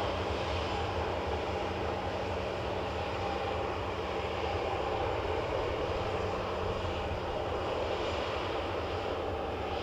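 Airliner jet engines running at a steady, unchanging level.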